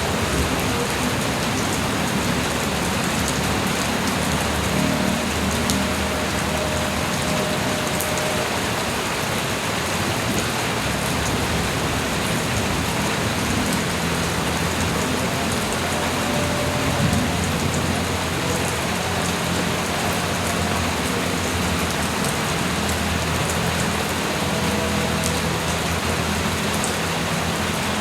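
Light rain falling steadily: an even hiss of rain on surfaces, with a few separate drop clicks scattered through it.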